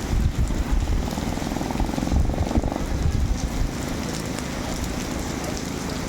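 Longtail boat engine running, its rapid pulsing note dying away about halfway through, with wind buffeting the microphone.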